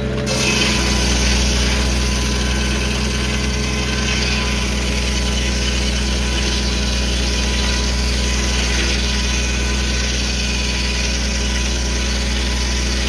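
1952 Farmall H's four-cylinder engine running steadily under load, driving a Corley circular sawmill. The saw blade cuts through a log with a loud, even rushing hiss over the engine, starting abruptly just after the start and stopping near the end.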